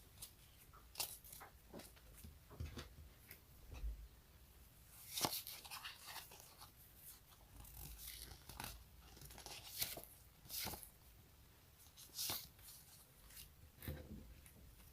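Close-up sticky crackling and peeling: a surface pulled off something tacky again and again at an irregular pace, loudest about five seconds in.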